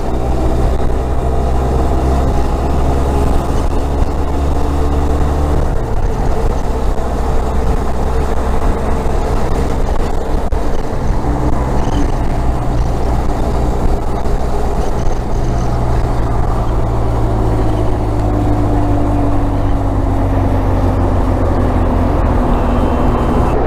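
Benelli TRK 502's parallel-twin engine running while the motorcycle is ridden at road speed. The engine note changes about six seconds in and falls slowly near the end as the bike eases off.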